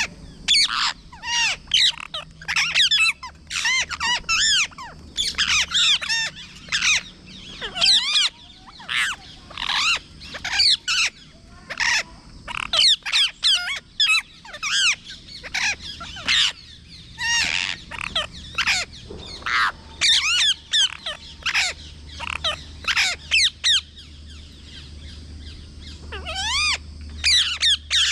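Parrot squawking over and over: harsh screeching calls that bend up and down in pitch, in quick runs of several calls with short gaps between them.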